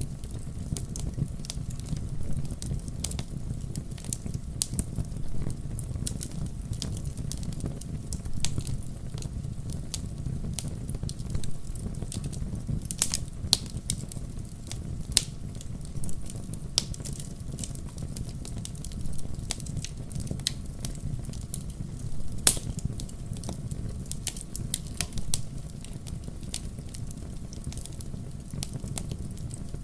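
Wood fire burning in a fireplace: a steady low rumble of flames with scattered sharp crackles and pops, the loudest a little before halfway and about three quarters through.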